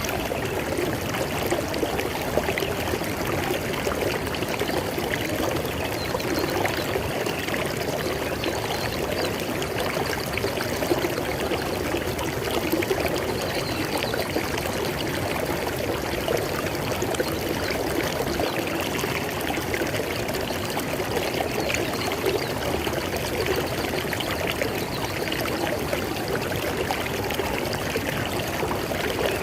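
River water flowing steadily over rocks, an even rushing and splashing with no let-up.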